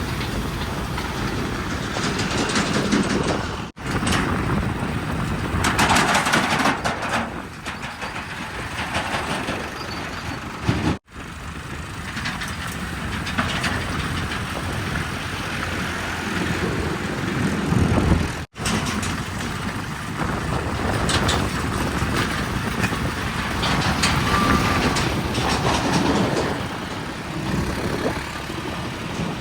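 Heavy diesel machinery running at a mud-loading site: backhoe loader, tractor and truck engines working, heard in several short clips that cut abruptly about every seven seconds, with a brief hissing burst about six seconds in.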